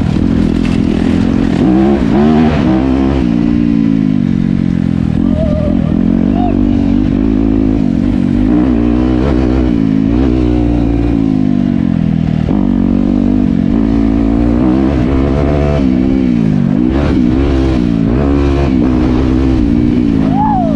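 Dirt bike engine running under riding, its pitch repeatedly rising and falling as the throttle is opened and rolled off.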